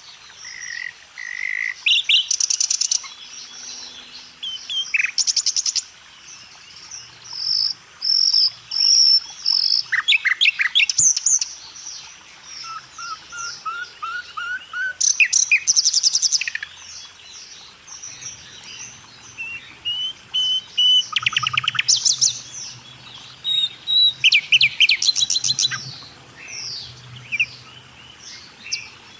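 Several birds singing at once: a mix of quick chirps, short whistled phrases and fast rattling trills, overlapping throughout.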